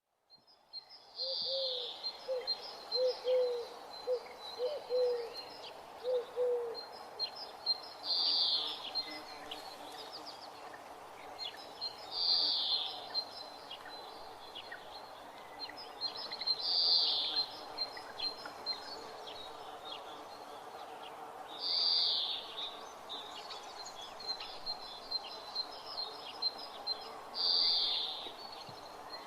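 Birds calling: a louder high call about a second long repeats every four to five seconds over a steady run of quick high chirps. In the first seven seconds a series of short low notes is heard as well.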